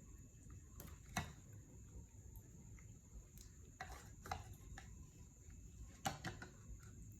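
Faint room tone with a few sharp clicks and knocks, about a second in, around four seconds in, and about six seconds in, over a steady faint high tone.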